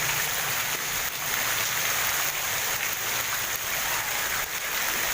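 Heavy tropical downpour: a steady hiss of rain pouring onto a flooded street, with no let-up.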